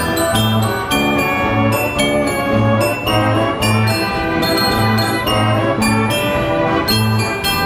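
Wurlitzer 157 carousel band organ playing a tune: bright pipe melody over a bass that thumps out a steady beat about twice a second, with bells ringing along.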